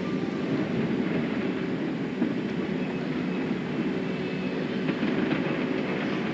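An engine running steadily under a dense, even rumble, typical of heavy equipment or a vehicle at work.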